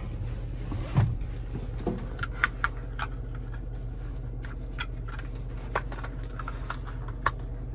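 6.4-litre gasoline Hemi V8 of a Ram 5500 idling steadily, heard from inside the cab, with scattered small clicks and knocks and a thump about a second in.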